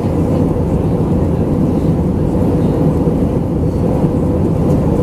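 Steady cabin noise of an Airbus A319-112 airliner in flight, heard from a window seat: a deep, even rumble of airflow and its CFM56 engines, with a faint steady hum above it.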